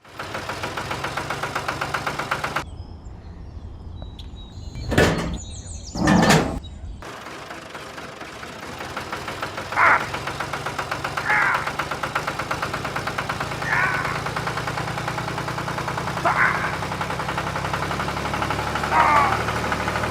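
Small motor of a miniature DIY tractor running with a fast, even buzz, with two louder knocks about five and six seconds in. Later, short higher-pitched sounds come about every two and a half seconds over the running motor.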